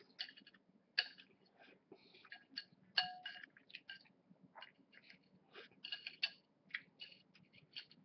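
Metal cutlery clinking and scraping against a dish while eating, in light irregular taps, a few ringing briefly, the sharpest about one and three seconds in.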